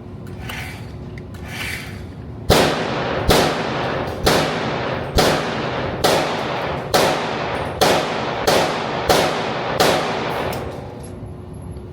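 A firearm shooting a string of about ten rapid shots, each under a second apart, each with an echoing tail.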